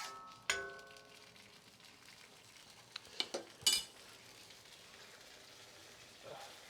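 Chicken balti sauce sizzling faintly in a pan while it is stirred, with a metal utensil knocking the pan about half a second in so that it rings briefly, and a few sharp clinks around three to four seconds in.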